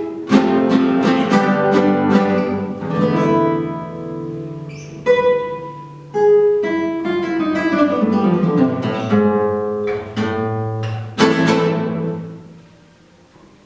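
Two acoustic guitars playing a duet, mixing strummed chords with plucked melody notes. A final chord about eleven seconds in rings and fades away near the end.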